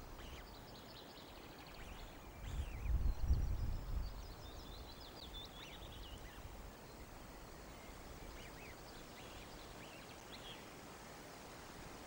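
Faint high-pitched bird chirps and rapid trills over a steady outdoor hiss, with a low rumble of wind on the microphone a few seconds in.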